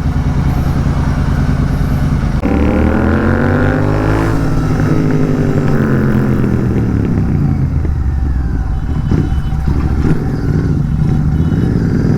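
Royal Enfield 650 parallel-twin motorcycle with a Gursevak short-can exhaust idling, then revved once about two seconds in: the pitch climbs for about two seconds and falls back to idle, which then carries on.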